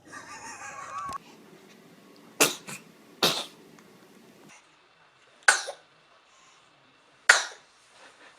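A baby sneezing four times, short sharp sneezes spread over about five seconds.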